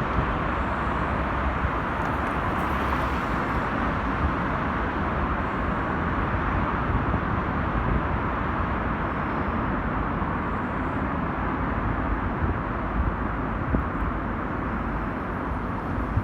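Heavy truck driving through a road tunnel: a loud, steady rumble of engine and road noise, with no clear pitch changes.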